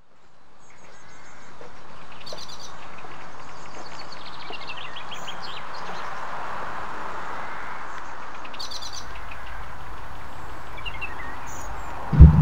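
Rural outdoor ambience fading in, with small birds chirping now and then over a steady background hiss. Right at the end a sudden, very loud low sound cuts in.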